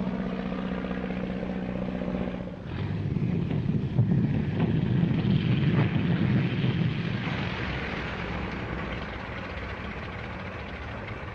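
Light airplane's piston engine and propeller: a steady drone, then from about two and a half seconds in a louder, rougher rumble with a few knocks, quieting gradually toward the end.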